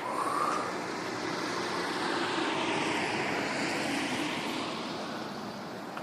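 A passing vehicle: a broad engine and road noise that swells, holds through the middle and fades toward the end.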